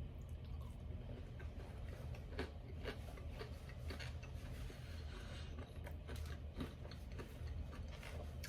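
Chewing chicken nuggets close to the microphone: soft, irregular clicks and crunches of a mouth working on food, over a faint steady low hum.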